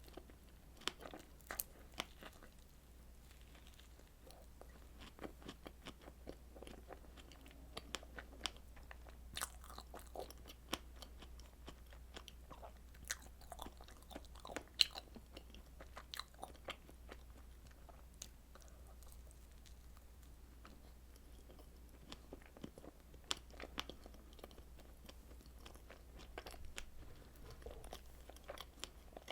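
Close-miked eating of strawberry desserts: bites and chewing with many irregular, sharp crunchy clicks, over a steady low hum.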